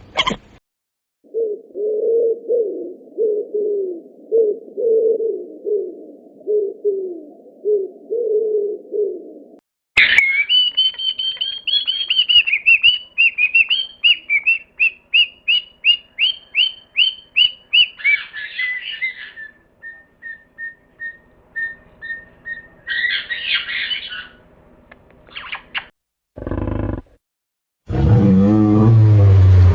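A run of separate animal calls. First comes a low call repeated over and over for about eight seconds. Then a bird chirps rapidly and high-pitched for about eight seconds, followed by thinner, softer chirps. A short call and a low, deep call come near the end.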